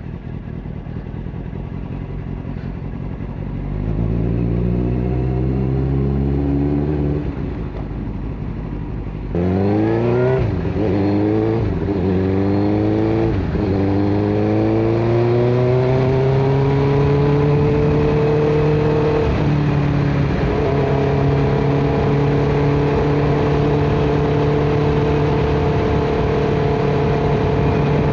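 Motorcycle engine heard from the rider's seat, accelerating in a series of quick upshifts, its pitch climbing and dropping back with each gear change. It then settles into a steady cruise.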